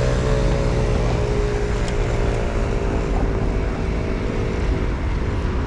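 City bus running close by: a steady whine over a low engine rumble, the whine sinking slightly in pitch.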